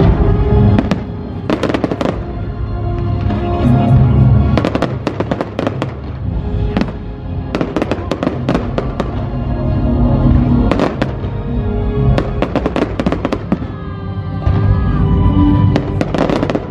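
Fireworks display: repeated bangs and crackling from bursting shells, coming in clusters, over loud music playing throughout.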